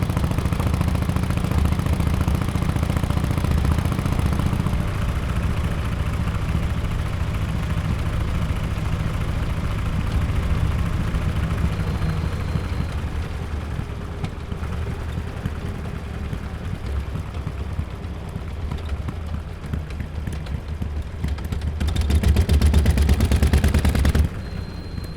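2017 Harley-Davidson XL1200X Forty-Eight's air-cooled V-twin running through aftermarket Bell's Performance mufflers, its exhaust a rapid string of pulses. It pulls strongly at first and eases off over the next several seconds, then rises again near the end before dropping off suddenly.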